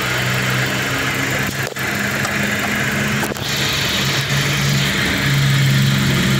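2009 Dodge Journey engine idling steadily.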